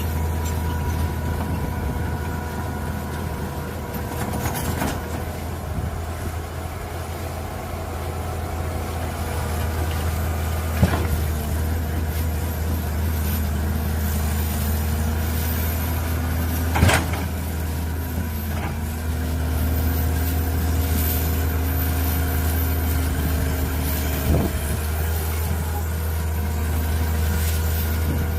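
Mini excavator's diesel engine running steadily, with a whine that shifts in pitch and three sharp knocks, the loudest about two-thirds of the way through.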